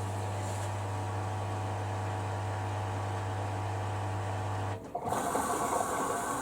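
Hoover Dynamic Next washer-dryer starting a cycle: a steady machine hum that cuts off about five seconds in, followed by a louder rushing sound typical of water beginning to fill the drum.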